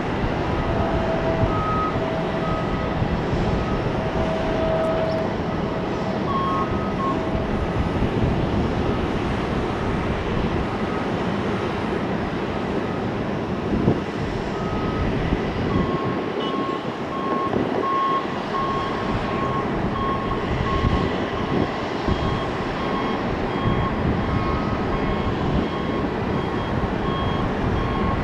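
Steady noise of jet aircraft engines at an airport. Repeated short electronic beeps sound through much of it, more regular in the second half.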